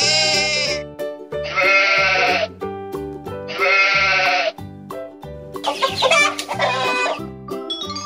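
Sheep bleating repeatedly, long wavering bleats about every two seconds, over upbeat children's background music with a steady beat.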